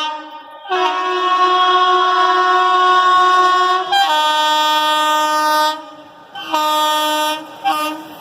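Indian Railways locomotive horn sounding a series of blasts: a long three-second blast about a second in, a second long blast, then a shorter one and a brief toot near the end.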